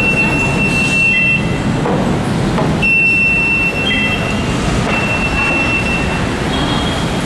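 Loud, steady urban vehicle noise, with a thin high squeal or whine that comes and goes several times.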